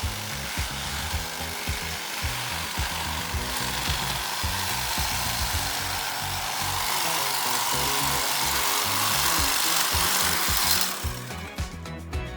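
A power tool runs steadily with a loud, rasping noise and stops about eleven seconds in. Background music with a steady beat plays underneath.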